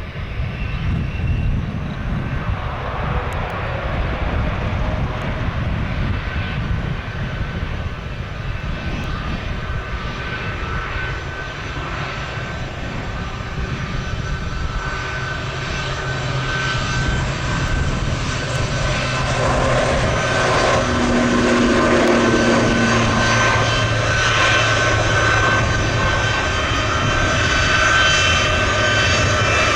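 Jet airliner's engines running, a steady whine that grows gradually louder, with wind rumbling on the microphone.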